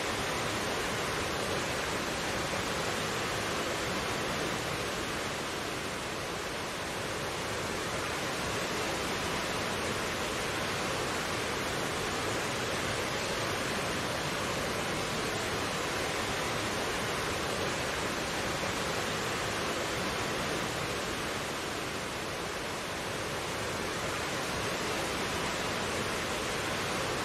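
Mountain stream flowing over rocks: a steady, even rush of water that hardly changes.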